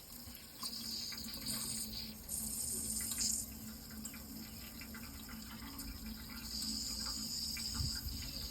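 Running water, steady, with insects chirring in high-pitched stretches that come and go every second or two, and a low steady hum underneath.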